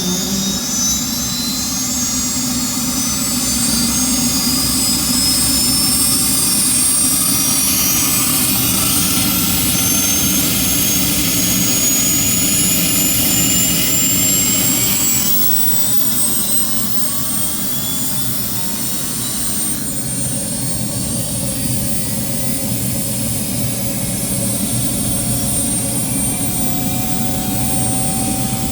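Helicopter engine and rotor running up to speed after start: a steady mechanical run with a whine climbing in pitch through the first half, then another tone rising near the end.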